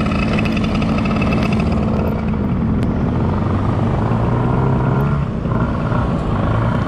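Motor scooter engine running while riding, over a steady rush of road and wind noise. The engine note drops lower about four seconds in and shifts again about five seconds in.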